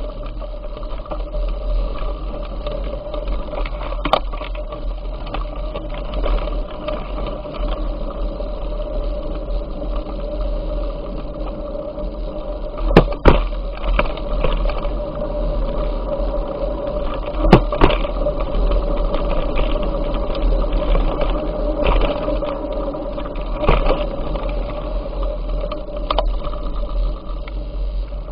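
Bicycle riding along a path: a steady low rumble with a hum, broken by a few sharp knocks about 13, 17 and 24 seconds in.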